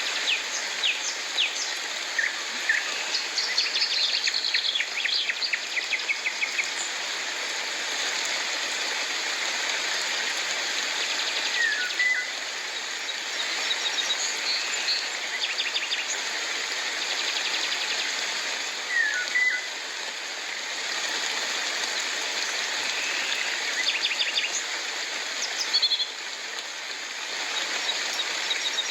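Steady rain hiss with birds calling over it: a rapid run of repeated chirps near the start, then a short swooping call twice, about seven seconds apart, and another brief call near the end.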